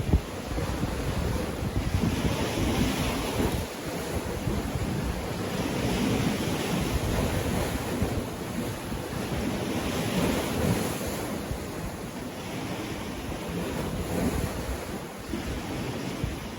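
Sea waves breaking and washing up a beach, the surf swelling every few seconds, with wind rumbling on the microphone and a sharp buffet right at the start.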